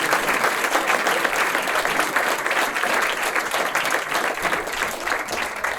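A live audience applauding, with some cheering, in a sustained round that slowly fades.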